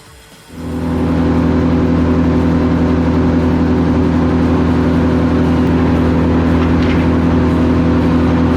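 An engine starts being heard about half a second in and runs steadily at one constant speed, with an even, unchanging hum.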